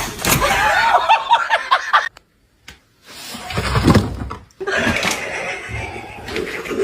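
A person laughing in quick, broken bursts, cut off about two seconds in by a brief silence, followed by other indistinct sounds.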